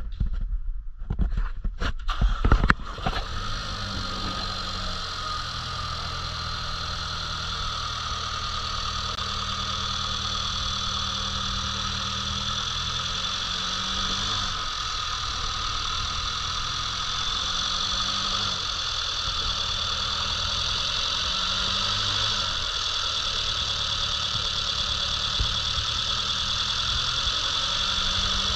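Mercedes-Benz CLA-Class turbocharged 2.0-litre four-cylinder engine starting, with irregular knocks over the first three seconds, then idling steadily with a steady high whine over the idle.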